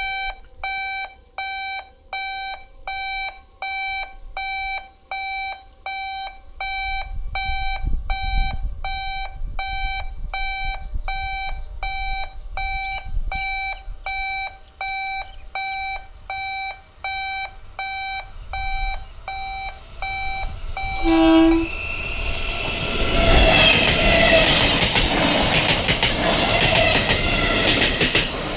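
Level-crossing warning bell ringing in short regular pulses, a bit over one a second, while the rumble of an approaching local passenger train grows underneath. About three-quarters of the way through the train gives a short horn blast. It then passes close and loud, the bell drowned by the coaches and the clatter of wheels over rail joints.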